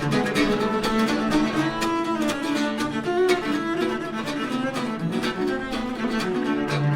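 Acoustic string music played live: a cello with other bowed and plucked strings, held low notes under a busy run of quick, sharply attacked notes.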